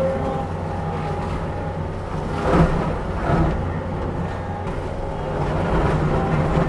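Diesel engine of a heavy land-clearing machine running steadily under load while it chops up brush and small trees. There are brief louder bursts of wood being broken up about two and a half and three and a half seconds in.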